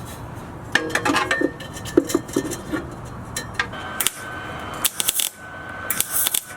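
Irregular metallic clanks and clinks as sections of exhaust test pipe are handled and fitted together in a mock-up, some hits ringing briefly.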